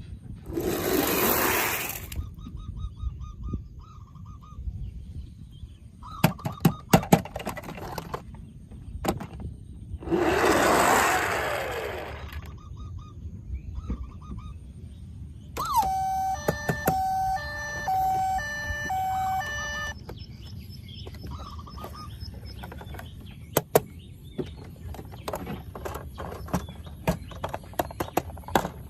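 Toy vehicles being handled: scattered sharp plastic clicks and rattles, two loud hissing bursts, one near the start and one about ten seconds in, and an electronic toy sound chip playing a short beeping tune about halfway through.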